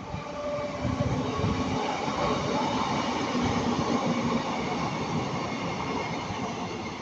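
Northern Class 156 diesel multiple unit, coupled to a Class 150, passing: steady diesel engine drone with wheel and rail noise, building about a second in and easing slightly near the end.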